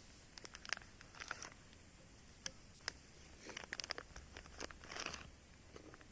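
Faint, scattered light clicks and short crinkling, rustling noises of things being handled.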